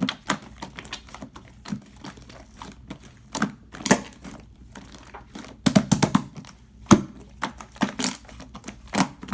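Slime being squeezed and pressed by hand, giving off irregular clusters of sharp popping clicks as air bubbles burst.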